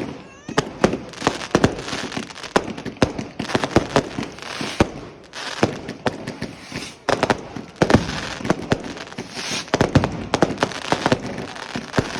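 Fireworks going off: many sharp bangs and cracks in quick, irregular succession, with stretches of hissing crackle between them.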